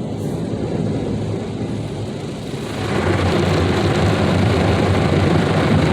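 Mark VII ChoiceWash XT rollover car wash on its brush pass, heard from inside the truck: a steady rumble and hiss of spinning wash brushes and water against the body. It grows louder about three seconds in as the gantry comes closer.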